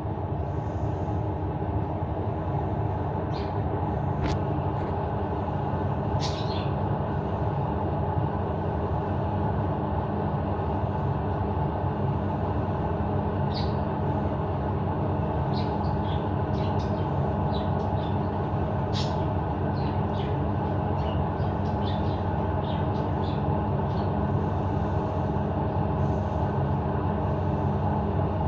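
A steady mechanical drone with a constant low hum throughout. Over it, a budgerigar gives short, high chirps now and then, more often in the second half.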